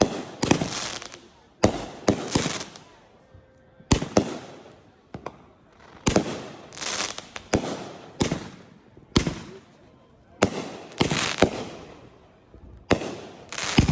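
Consumer fireworks going off in quick succession: sharp bangs about once a second, many followed by a crackling hiss as the bursts fizz out.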